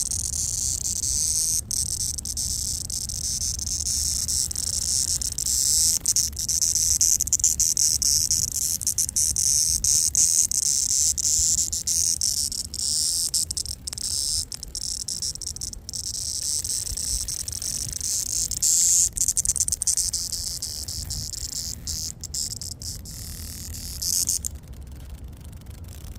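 Cicada calling: a continuous high buzz from its vibrating tymbals, broken by many brief gaps, that stops about two seconds before the end.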